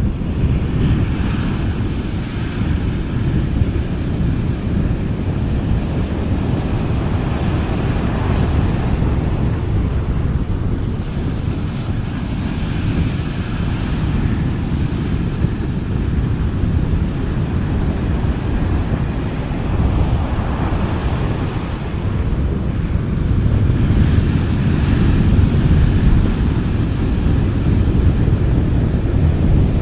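Small sea waves washing onto a beach, a soft wash of surf swelling every few seconds, under a steady low rumble of wind on the microphone.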